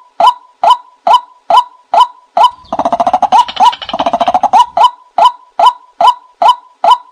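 Watercock calling: short hollow pitched notes repeated evenly about twice a second, broken about two and a half seconds in by a couple of seconds of rapid bubbling notes before the steady series resumes. It is the call played to lure watercocks.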